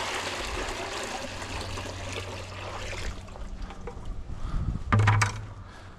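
Water pouring and trickling while a chicken waterer is filled. It tapers off after about three seconds, and a short knock comes near the end.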